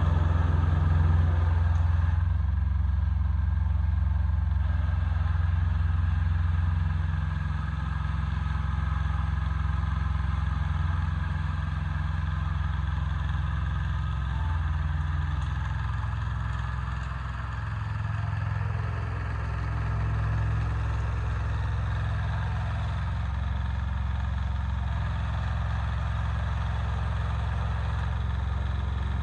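Yanmar YM146 compact diesel tractor engine running steadily while the tractor is driven, its note dipping briefly a little past halfway.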